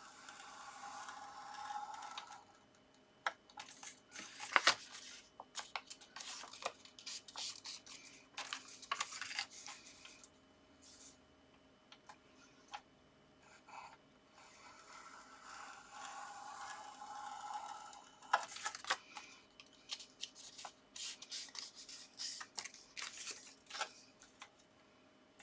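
Paper envelope being scored and folded on a scoring board: two scraping strokes of the scoring tool along the paper, each about two seconds long, with paper rustling and creasing and light clicks and taps in between.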